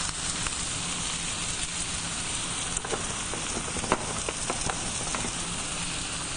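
Green olive, walnut and red pepper filling frying in butter in a pan: a steady sizzle, with a few sharp crackles about three to five seconds in.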